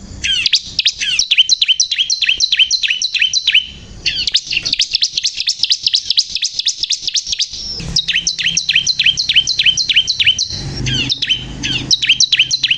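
A ciblek kristal prinia singing at full voice: rapid runs of high, downward-sweeping chip notes at about five or six a second, in three long phrases with short breaks about four and eight seconds in.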